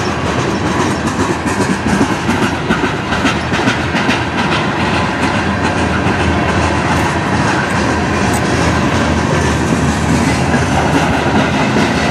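Freight train of tank cars and a covered hopper rolling past: a steady, loud rumble of steel wheels on rail, with clicks of the wheels crossing rail joints, thickest in the first few seconds.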